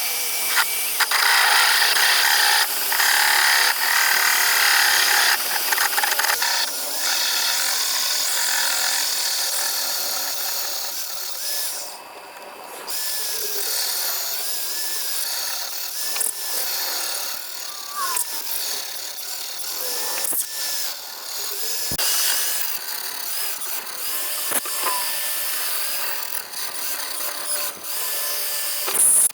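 Magnetic drill boring through steel with a larger twist drill, enlarging a dowel pin hole in a step up from the smaller pilot sizes. Steady, mostly high-pitched motor and cutting noise, easing off briefly about twelve seconds in, with faint squeals from the bit later.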